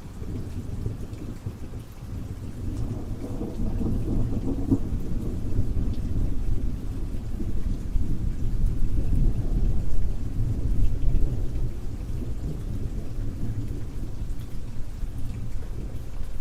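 Rain falling steadily under a long, low roll of thunder that builds a couple of seconds in, peaks near the middle and slowly dies away.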